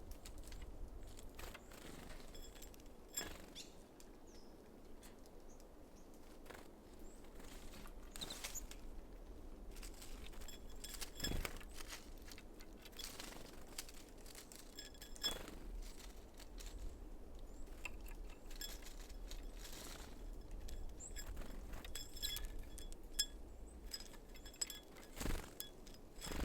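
Small birds at a seed feeder: occasional sharp taps and knocks a few seconds apart, with faint, short high-pitched chirps.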